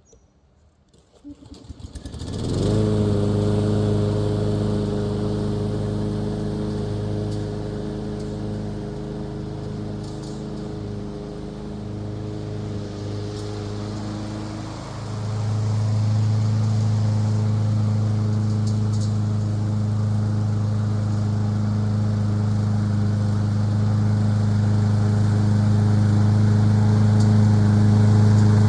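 Masport Rotarola walk-behind mower's engine starting up: it catches and revs up over about two seconds, then runs steadily at working speed. It grows louder about halfway through.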